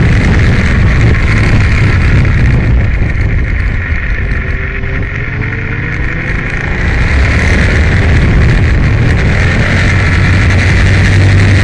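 Aprilia Tuono motorcycle running hard on a track, its engine mixed with strong wind rush. About four seconds in, the engine eases off and the sound drops for a few seconds, then it picks up again and pulls back to full loudness.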